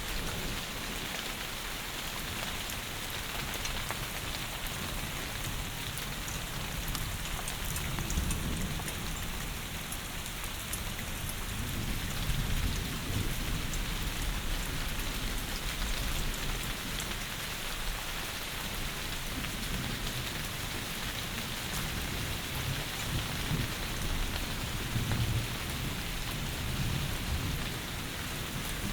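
Heavy rain falling steadily, with low rumbles of thunder swelling up several times.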